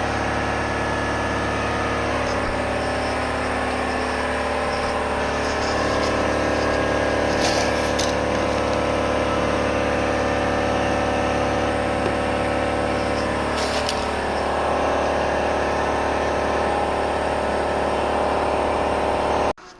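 A motor or engine running steadily at an even speed, its pitch shifting slightly a couple of times.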